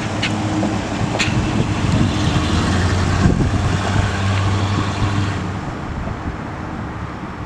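A 305 cubic-inch V8 in a 1986 Chevrolet K10 pickup, running steadily. Its level grows louder toward the middle, then eases off near the end.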